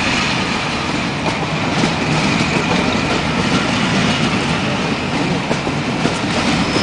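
Steam-hauled passenger train rolling out of the station: carriage wheels clattering over rail joints above a steady rumble.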